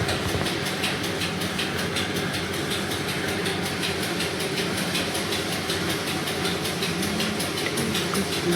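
Steady mechanical hum, like an engine or motor running, with a fast, even, high ticking over it.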